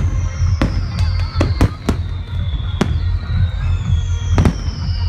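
Fireworks going off: a string of sharp bangs at irregular intervals, with two long whistles gliding downward in pitch. Music plays underneath.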